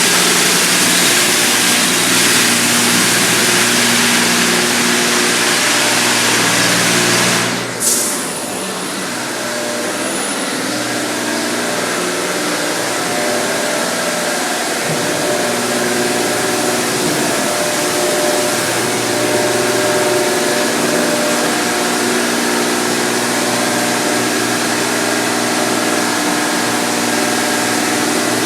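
Mark VII in-bay automatic car wash at work: a steady hiss of spray with the hum of its pumps and motors. About eight seconds in, the spray cuts off with a sharp click, then carries on more quietly over the machine hum.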